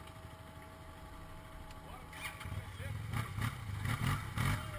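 Yamaha Fazer 150 Blueflex single-cylinder engine running on its stock exhaust: a steady idle that grows louder and rougher from about halfway, with short surges in level.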